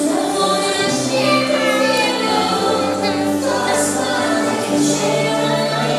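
Choir singing: several voices holding long notes that change every second or so.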